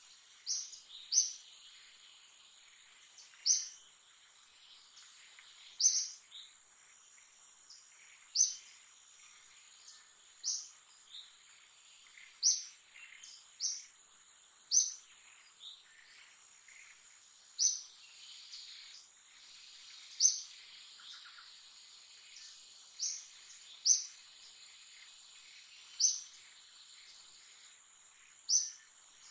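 A bird repeating a short, high chirp about every two to three seconds, over a steady high-pitched insect drone.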